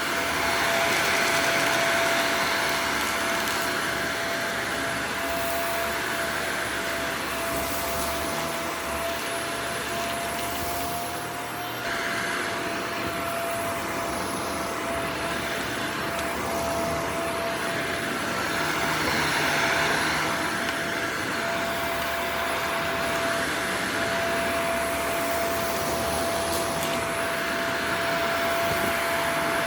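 Upright vacuum cleaner running on a dirty carpet, a steady motor whine with a rushing sound that swells and fades every several seconds.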